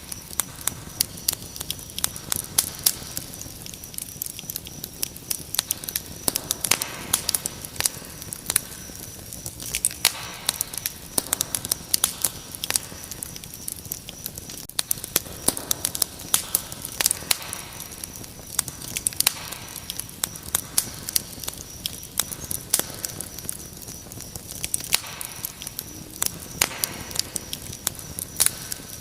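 Wood fire crackling with many sharp pops, over a steady high-pitched cricket trill.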